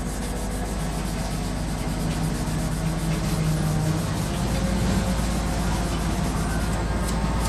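Sandpaper rubbing back and forth along a steel sword blade's edge by hand, over a steady low hum.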